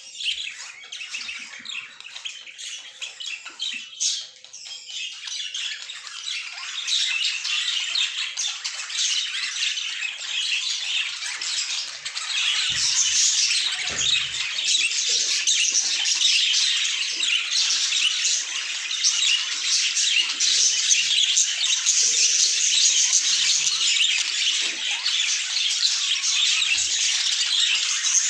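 A flock of budgerigars chattering and warbling together: a dense, continuous stream of chirps and squawks. It builds up and grows louder over the first dozen seconds, then holds steady.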